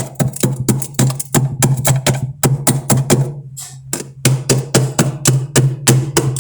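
A fast run of sharp knocks, about four or five a second, over a steady low hum, with a brief pause about three and a half seconds in.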